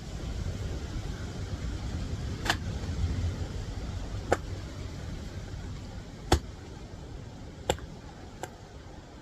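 A steady low rumble with five sharp clicks or knocks at irregular intervals.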